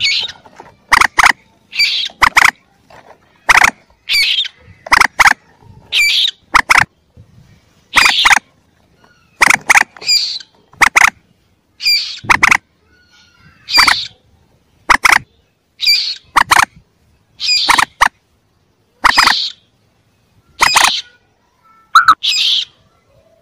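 Lure recording of young common moorhen (mandar) calls: short, sharp calls repeated about once a second, many in quick pairs.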